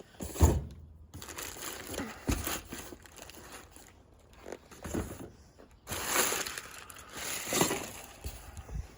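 Brake-kit packaging being handled: irregular crinkling and rustling, with a sharp knock about half a second in and louder rustles near the end.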